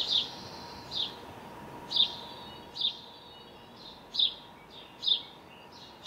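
A small bird chirping in a garden: short high calls repeated about once a second, some louder and some fainter.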